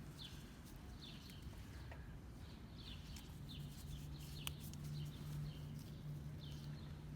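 A bird chirping over and over in short, quickly falling notes. A low steady hum comes in about halfway through.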